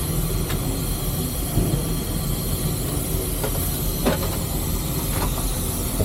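Steady hiss and rumble of a three-truck Shay steam locomotive heard from inside its cab, with a few light knocks, about half a second, four and five seconds in.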